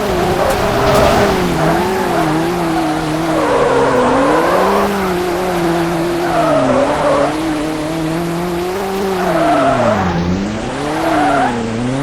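A car engine revving up and dropping back again and again, with tyres screeching in short bursts several times.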